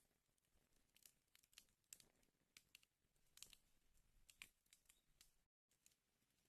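Wood fire burning in a fireplace, faintly crackling with irregular sharp pops and snaps over a soft hiss; the sound drops out for a split second about five and a half seconds in.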